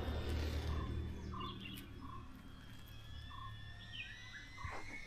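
Birds calling outdoors: a few short chirps spaced out over several seconds, over a faint steady low hum.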